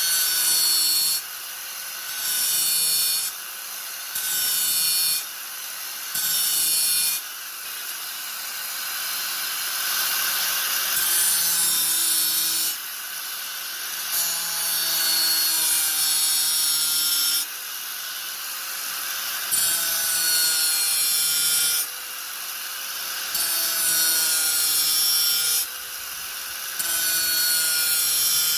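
Angle grinder running steadily, its disc biting into the work in repeated passes with short pauses between: brief passes at first, then longer ones of two to three seconds.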